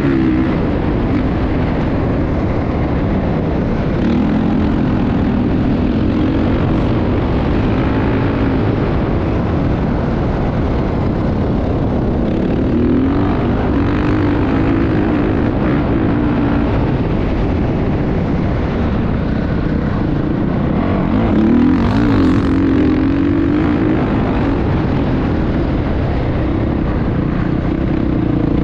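Motocross dirt bike engine running, its pitch wavering up and down with the throttle several times.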